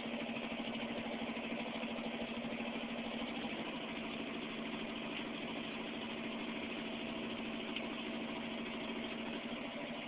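Chevy pickup truck's engine idling steadily, loud through an exhaust that the owner says is broken.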